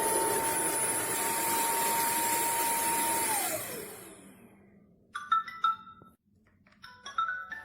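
Wet-dry floor cleaner's motor running with a steady high whine, then switched off about three seconds in, its pitch falling as it spins down. A few sharp clicks and short tones follow near the end.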